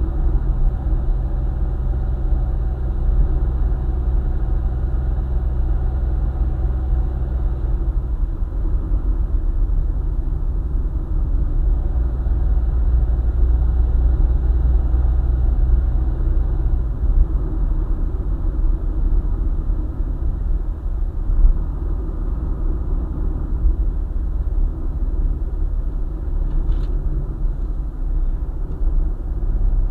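Car engine and tyre rumble heard from inside the cabin while driving on the highway, steady throughout, with the engine note changing about eight seconds in.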